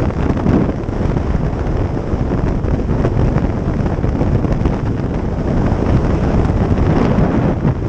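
Wind buffeting the microphone of a motorcycle on the move, a loud steady rush that masks the engine and road noise.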